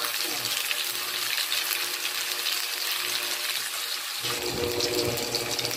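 Whole shrimp sizzling in hot oil in a wok, a steady hiss. A low rumble joins about four seconds in.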